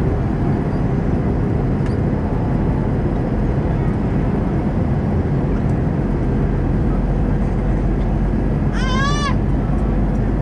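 Steady cabin noise inside an Airbus A320-214 in flight: a loud low rumble of its CFM56 engines and airflow, which deepens about six seconds in. About nine seconds in comes a brief high-pitched vocal cry from someone in the cabin.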